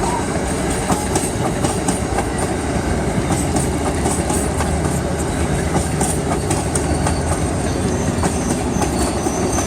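Amtrak passenger train passing close by: a steady loud rumble of the cars rolling, with repeated clicks of the wheels over the rail joints.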